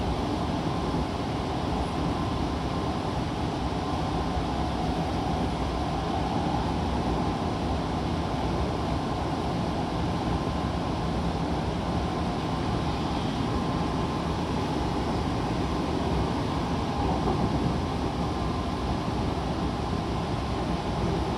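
Interior running noise of an Odakyu 1000 series electric train at speed: a steady rumble of wheels on track with a faint steady tone above it.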